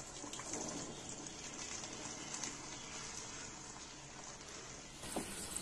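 Faint steady sizzling of tomato masala cooking in a non-stick kadai over a low gas flame as boiled black chickpeas are tipped in, with a few soft plops in the first second or so.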